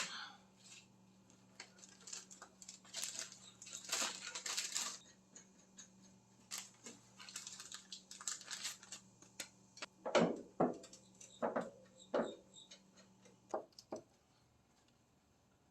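Tools and parts being handled and rummaged through: irregular rustling, light clicks and knocks, with a few sharper knocks about ten to twelve seconds in.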